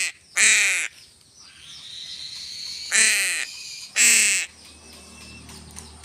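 A crow cawing three times: loud, harsh calls of about half a second each that fall in pitch. The last two come close together, about three and four seconds in.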